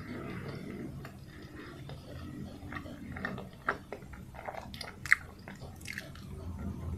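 Close-miked chewing of soft steamed peanut bun (pau kacang kukus), with wet mouth clicks and smacks scattered through. A single sharp click about five seconds in is the loudest sound.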